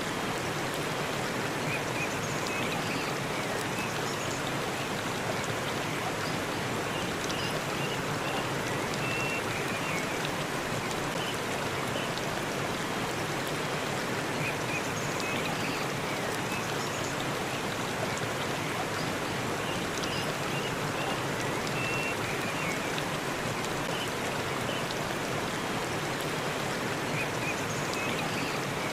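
Waterfall running in a steady, even rush of falling water, with a few faint short high notes now and then.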